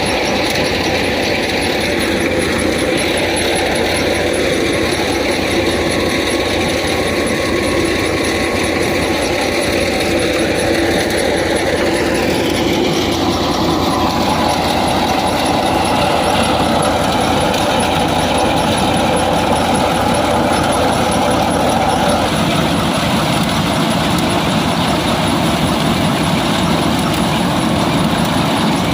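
Fiat 480 tractor's diesel engine running steadily under load, together with the machinery noise of the thresher it drives. The pitch of the machinery shifts downward about halfway through.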